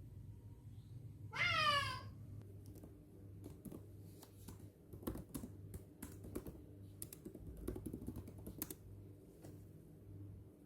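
A domestic cat meows once, briefly, about a second and a half in. It is followed by a run of light, irregular clicks, like keys being tapped.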